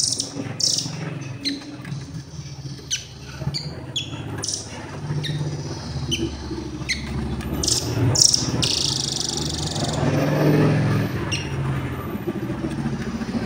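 Nuthatch giving short, sharp call notes, repeated at irregular intervals over a steady murmur of traffic and crowd noise, with a brief hiss about nine seconds in.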